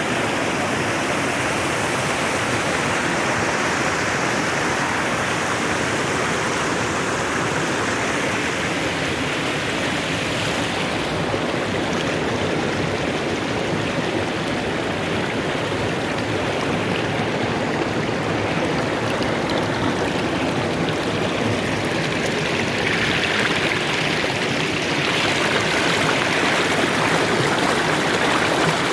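Fast-flowing mountain river rushing steadily over stones. The water sound gets brighter and a little louder over the last several seconds.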